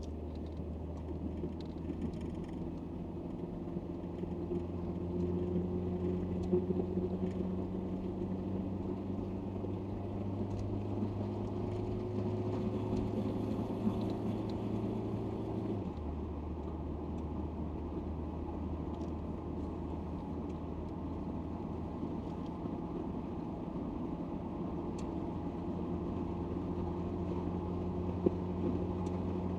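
Citroen XM driving, its engine and road noise heard from inside the cabin: the engine note climbs slowly for about half the time, drops suddenly at a gear change, then holds steady while cruising.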